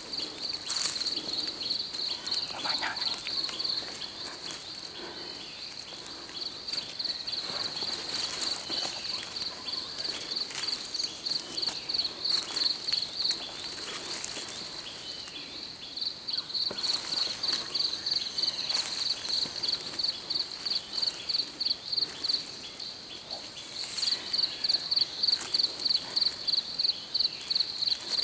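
An insect, cricket-like, chirping in rapid, evenly spaced high pulses. It fades out twice and comes back, loudest near the end, with faint bird calls in the background.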